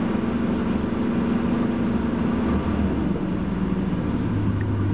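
1973 Dodge Dart's slant-six engine idling steadily and smoothly, shortly after a cold start. About four seconds in, its note drops lower.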